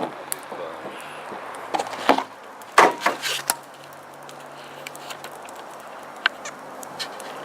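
A few sharp knocks and clatters, loudest about three seconds in, over a faint steady low hum, with a few lighter ticks later.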